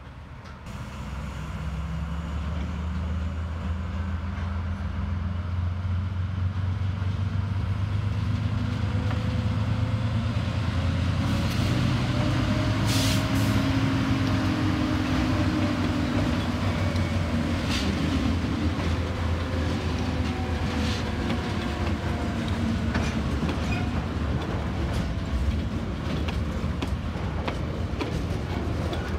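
TasRail TR-class diesel-electric locomotives hauling a container train at low speed. The engines' drone builds as they approach and passes close by at about the middle, its pitch rising slightly and then falling. Container wagons then roll past with wheels clicking over the rail joints.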